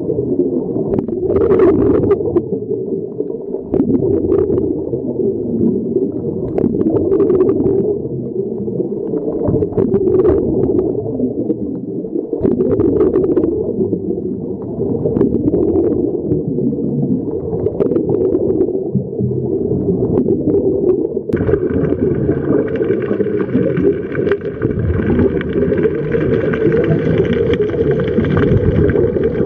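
Underwater sound picked up by a waterproof camera: a muffled, low rumbling wash with short bursts of bubbles every two to three seconds. About two-thirds of the way through, a steady higher hum joins in.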